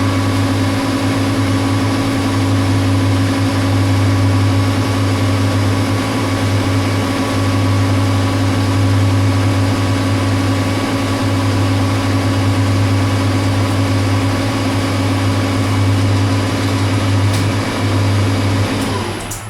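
Metal lathe running steadily under power through a turning pass on a steel screw blank, its motor and gearing giving a strong low hum with steady whining tones above it. It shuts down just before the end.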